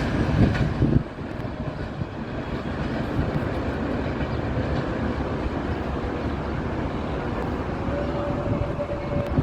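Passenger train hauled by a GEU 40 diesel locomotive running past: a loud rumble that drops off sharply about a second in, then a steady, quieter rolling noise of the train with a faint steady tone near the end.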